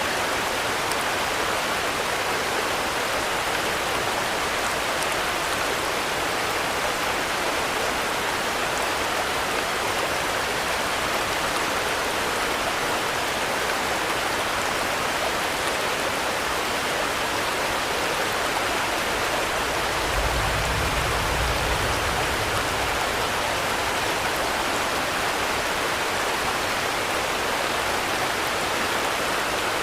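Steady rain, a dense even hiss with no let-up. A low rumble sounds for a few seconds about two-thirds of the way through.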